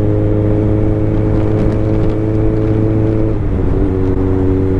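Motorcycle engine running at a steady pitch while riding, over a constant low rumble; the engine note drops a step about three and a half seconds in.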